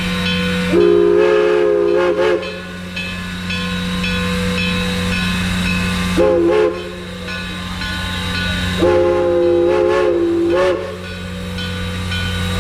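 Steam locomotive whistle sounding three blasts, long, short and long, each a chord of several tones, over the engine's steady low hum and hiss.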